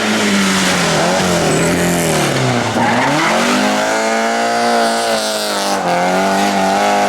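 Rally car engine at high revs. The revs drop to a low point about three seconds in, then climb again and hold high, with a short dip near the end.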